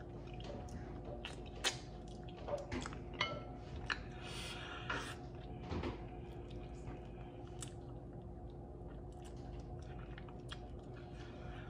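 Close-miked chewing of saucy fried chicken wings, with scattered wet clicks and smacks of mouth and lips as the meat is eaten off the bone.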